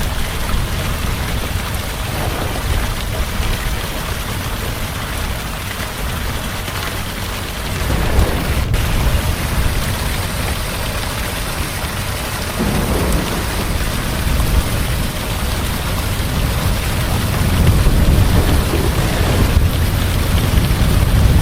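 Heavy rain falling steadily, with low rolling thunder rumbles that swell about a third of the way in, again past the middle, and more strongly near the end.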